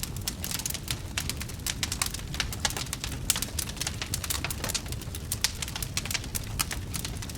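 Wood fire crackling: dense, irregular sharp pops and snaps over a steady low rumble of the burning fire.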